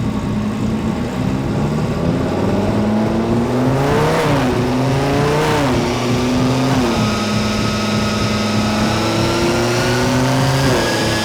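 Twin-turbo Lamborghini Huracán V10 engine idling, with two short throttle blips about four and five and a half seconds in. A thin whine slowly rises in pitch through the second half.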